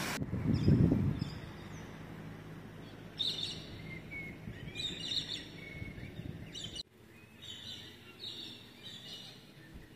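Birds chirping in bursts from the trees, with a few short whistled notes among the chirps, over a faint background hiss. A loud low rumble about a second in is the loudest sound.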